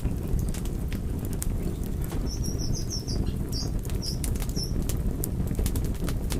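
Wood fire burning, with a steady low roar and frequent sharp crackles and pops. Between about two and five seconds in comes a short run of faint, high chirps.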